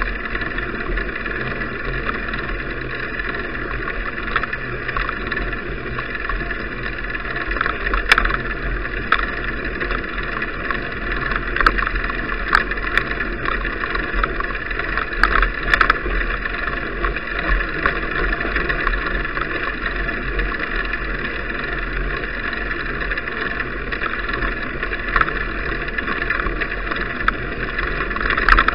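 Steady rushing wind and road noise on an action camera's microphone during a bicycle ride, with scattered sharp clicks and knocks from bumps.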